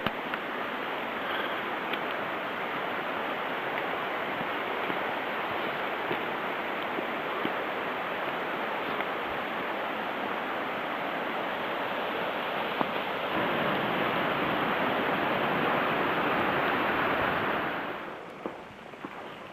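Steady rush of flowing water, like a mountain stream or small waterfall. It fades out near the end.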